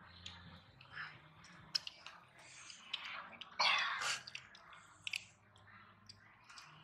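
A child chewing and smacking on a mouthful of grilled fish: scattered wet clicks and small mouth noises. About three and a half seconds in comes a louder burst of noise lasting about half a second.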